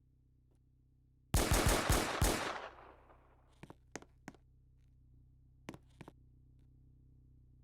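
A rapid burst of about five loud bangs in quick succession, with a short noisy tail, followed by a few faint clicks.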